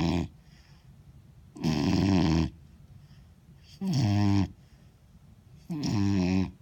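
Vizsla puppy snoring in sleep, a pitched, buzzy snore about every two seconds, each one lasting under a second.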